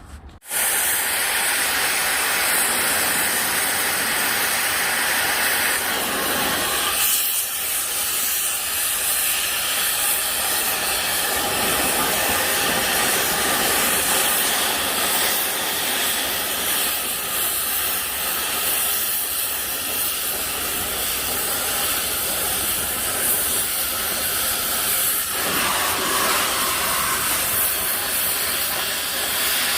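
Oxy-fuel cutting torch hissing steadily as it cuts back steel on the splitter's H-beam, with a brief dip about seven seconds in.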